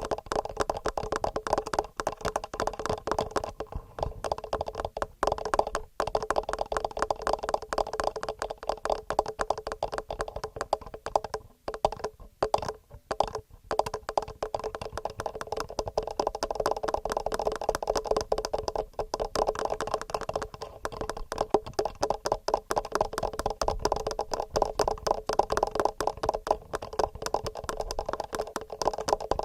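Fast fingernail tapping on the microphones of a TASCAM handheld recorder, a dense rapid run of clicks that thins out for a moment about twelve seconds in.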